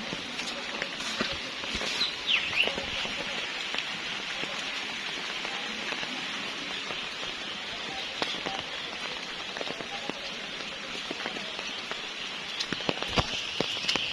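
Outdoor nature ambience: a steady high hiss throughout, with a few short, falling bird calls about two seconds in and scattered clicks and taps near the end.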